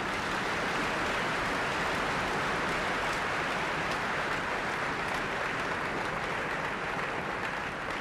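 A large audience applauding steadily, breaking out just as the song's music ends.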